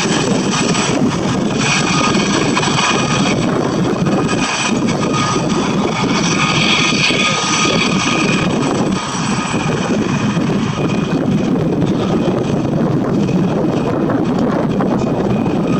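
Aérospatiale Gazelle helicopter flying low past, running steadily. Its turboshaft engine and Fenestron ducted tail rotor give a high whine over the rotor noise.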